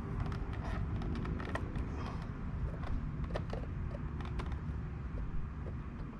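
Irregular metal clicks and creaks of a tool working the pin out of a Honda Odyssey sliding-door roller assembly, over a steady low background rumble.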